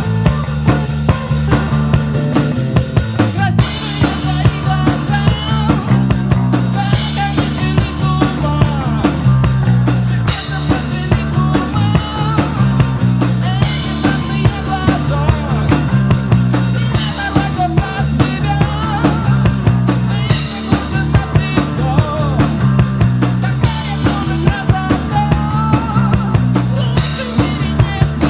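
Amateur rock band playing live: bass and electric guitar under a bending lead melody, with a drum kit keeping a steady beat.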